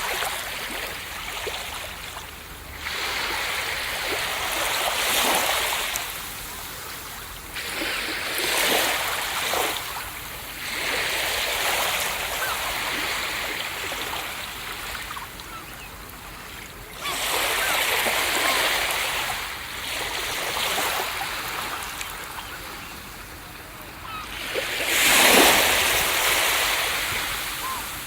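Ocean waves breaking on a beach: a wash of surf that swells and falls back every few seconds, with the biggest wave breaking near the end.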